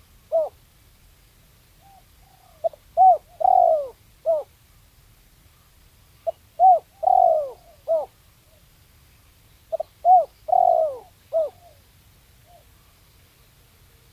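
Spotted dove cooing: three repeated phrases about three and a half seconds apart, each a couple of short coos, a longer drawn-out coo and a final short coo, with the tail of an earlier phrase right at the start.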